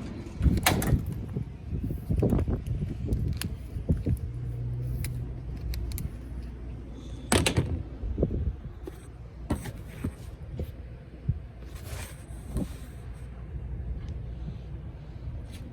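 Steady low rumble with scattered sharp clicks and knocks, the sound of tools and metal parts being handled at a rooftop HVAC unit.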